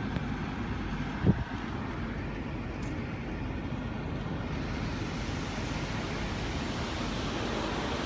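Automatic car wash heard from inside the car: a steady rushing noise of water spraying against the body, with one brief knock about a second in.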